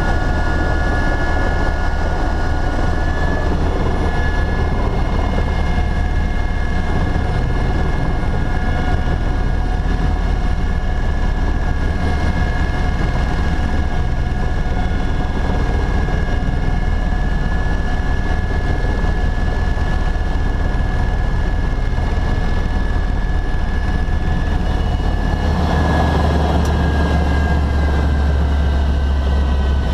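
Helicopter in flight: a steady rumble of engine and rotor with a high, steady whine over it. About 25 seconds in, the rumble changes and the whine drops slightly in pitch.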